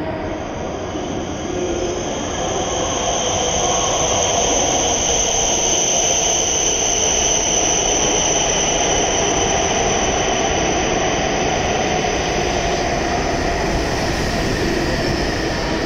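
E7 series Shinkansen train pulling into the platform and slowing as it runs past: a steady rushing rumble that swells over the first few seconds, with a high steady whine on top that fades out near the end.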